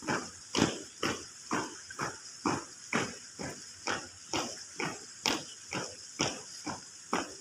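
A marching troop stepping in time, about two loud strokes a second. Each step comes with a shrill ringing from the Manggarai traditional costume.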